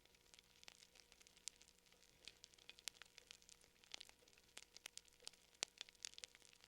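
Fire crackling softly: irregular sharp snaps and pops, several a second, some louder than others, over a faint hum.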